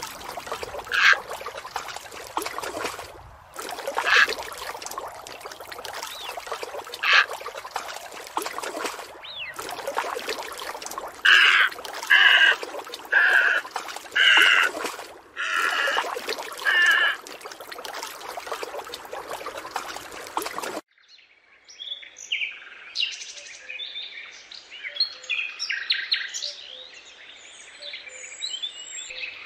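Water trickling and splashing, with a run of about six short bird calls in the middle. It stops abruptly about two-thirds through and gives way to Eurasian tree sparrows chirping busily.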